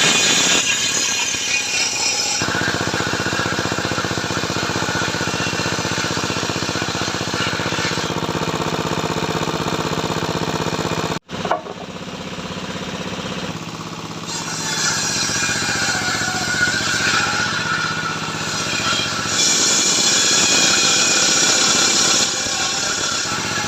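A power tool's motor running steadily, growing louder and harsher at times as it works the material. The sound drops out for an instant about eleven seconds in.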